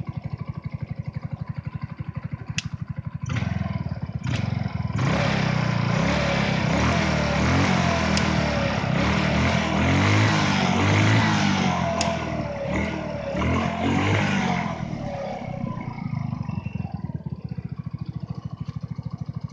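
150cc GY6 single-cylinder four-stroke engine of a Hammerhead GTS 150 go-kart, idling with an even rapid putter. It is blipped twice, then revved and held high for about ten seconds with the pitch rising and falling, before dropping back to idle. It is running smoothly on a freshly cleaned carburettor.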